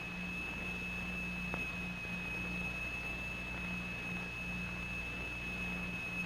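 A single steady high-pitched sine tone, the note driving a vibrating plate strewn with sand and lycopodium powder into a sonorous (Chladni) figure, over a faint low hum.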